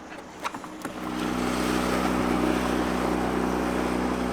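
Small boat motor, likely a dinghy outboard, running steadily at an even pitch. It comes in abruptly about a second in, after a few light clicks.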